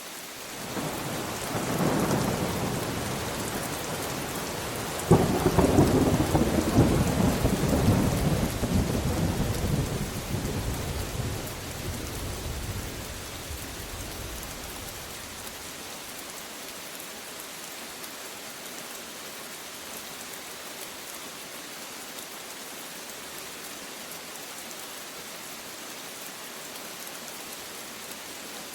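Thunderclap in steady rain: a rumble builds about a second in, a sharp crack about five seconds in sets off a long rolling rumble that fades away over the next ten seconds, leaving the steady hiss of rain.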